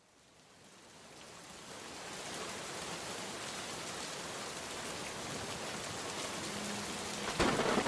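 Steady rain falling, fading in over the first couple of seconds, with a sudden loud thunderclap near the end.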